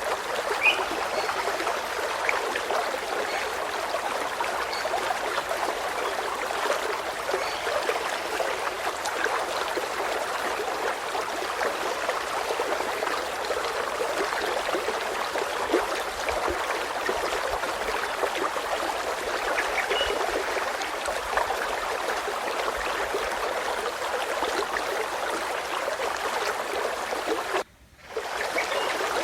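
Water of a small stream trickling and flowing steadily, dropping out for about half a second near the end.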